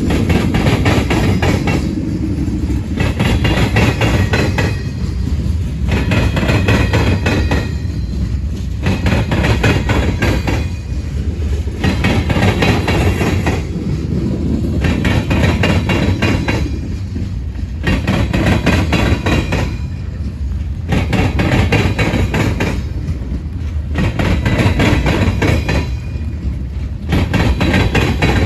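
Freight cars of a manifest train rolling past over a steady low rumble, with a burst of wheel clatter about every two and a half seconds as each car's trucks go by.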